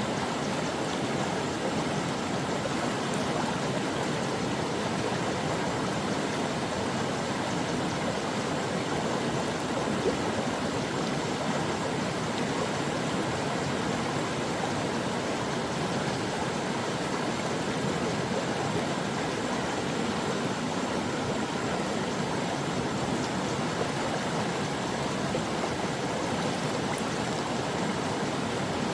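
Brook water flowing over rocks: a steady, even rushing and babbling with no change throughout.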